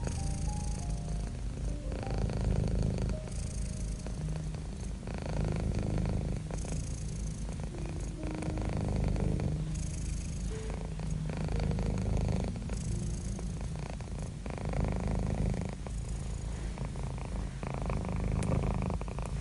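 Domestic cat purring close up, a low rumbling purr that swells and eases with each breath, about one swell every one and a half seconds.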